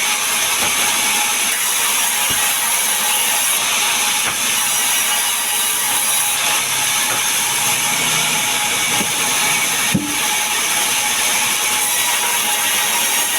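Power saw cutting mahogany and pine timber: a steady, high-pitched whine and hiss of the blade running through the wood, with a single knock about ten seconds in.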